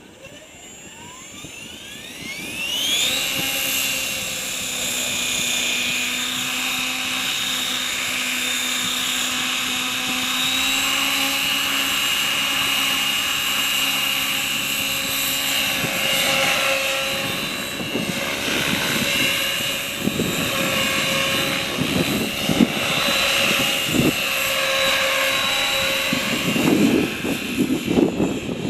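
Align T-Rex 550E V2 electric RC helicopter spooling up, its motor and drive-gear whine rising steeply in pitch over the first few seconds, then running steadily at head speed. In the second half, gusts of wind rumble on the microphone.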